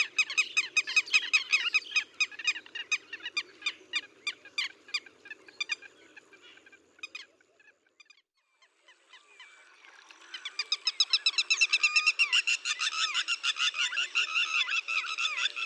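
Rainforest chorus of frogs calling in rapid, evenly repeated pulses, several a second. The chorus fades out about halfway through, drops to near silence for a moment, then swells back in, denser.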